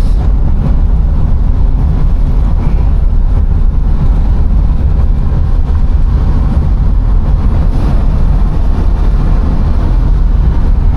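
Steady low road and wind rumble from a car rolling along the road under tow.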